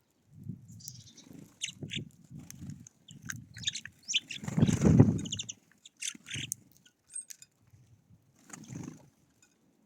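Wild birds at a feeder: scattered short, high chirps and calls, over low rustling thumps, with a loud burst of rustle about halfway through.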